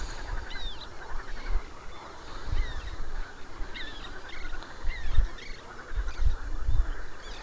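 Birds calling with many short chirps and whistles, with a few low bumps in between.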